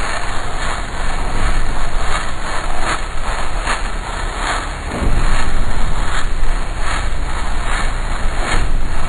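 Noise-music drone: a dense, loud wash of noise with pulsing swells about every 0.7 seconds, getting louder about five seconds in.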